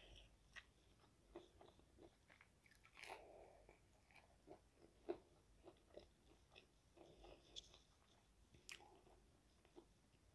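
Close-up eating sounds: biting into and chewing a crispy battered onion ring, quiet chewing broken by scattered sharp crunches and mouth clicks, the loudest about five seconds in.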